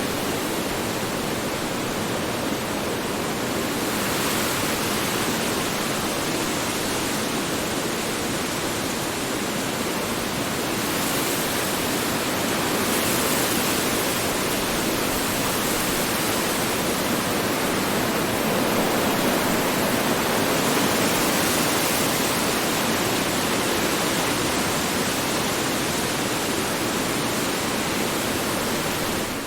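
Strong wind blowing in a steady, continuous rush, swelling slightly now and then.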